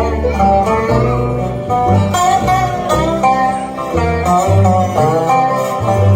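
Bluegrass band playing live, guitar and banjo picking over steady bass notes.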